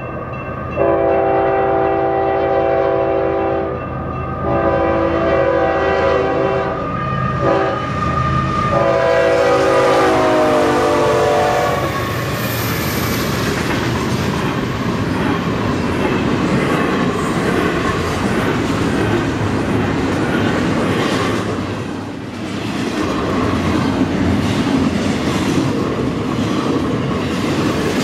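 A Union Pacific intermodal freight train's locomotive horn sounds a series of blasts for the grade crossing, mostly long with a short one among them. The last long blast drops in pitch as the locomotive passes. It is followed by the steady rumble and wheel clatter of the cars rolling by.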